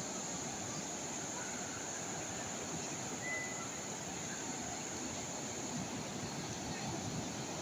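Calm sea waves washing on the shore, a steady even rush of noise, with a brief faint high chirp about three seconds in.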